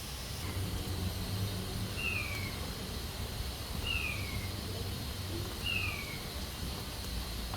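Pressure cooker on a wood stove hissing steadily. Over it, a short falling whistled call sounds three times, about two seconds apart, louder than the hiss.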